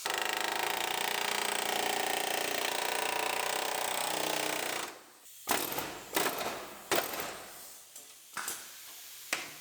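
A power tool running steadily on the car's sheet-metal body panel for about five seconds, then stopping, followed by a string of about eight sharp knocks as the glued outer panel is worked loose.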